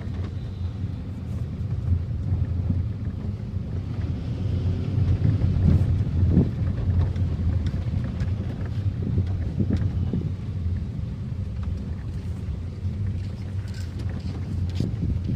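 Car engine running steadily under a low rumble, with wind buffeting the microphone in irregular gusts.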